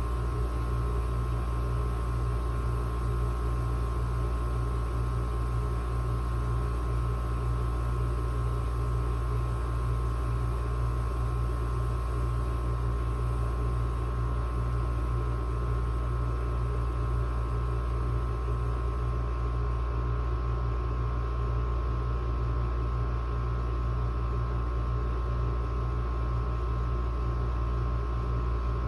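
Window air conditioner running steadily, its compressor and fan giving a constant low hum with a faint steady whine.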